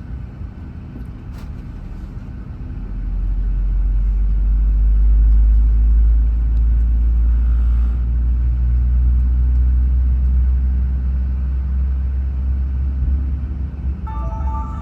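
Low, steady cabin rumble of a Boeing 737-800 on the ground, growing louder about three seconds in and then holding steady.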